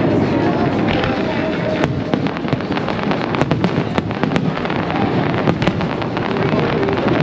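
Aerial fireworks going off: a continuous rumble of shell bursts, with a run of sharp crackling pops in the middle.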